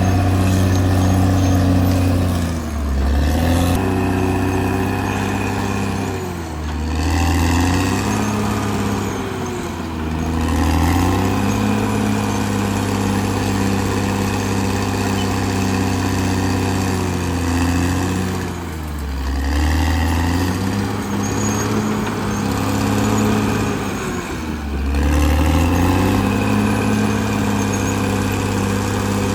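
Caterpillar D6R XL bulldozer's diesel engine running hard. Its speed dips briefly about five times and climbs back each time.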